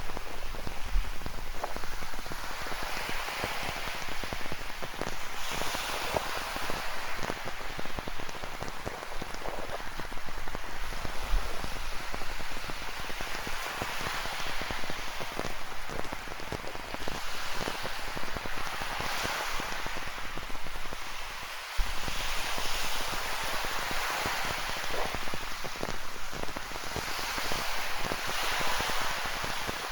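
Steady rain falling, with many small drops pattering close by, while ocean surf rises and falls in slow swells every few seconds.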